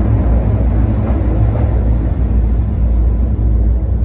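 Copper Basin Railway freight train pushing ore cars over the bridge, a loud steady rumble whose higher rattle fades over the last couple of seconds as it draws away.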